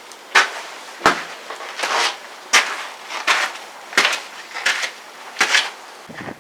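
Footsteps at a steady walking pace, about eight crisp steps in a row, stopping about a second before the end.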